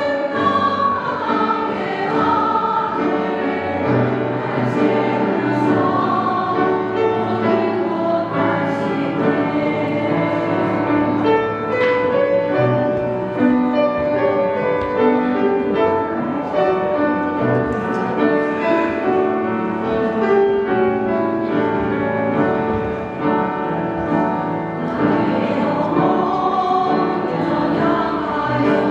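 Women's vocal ensemble singing in harmony, several voices holding and moving notes together.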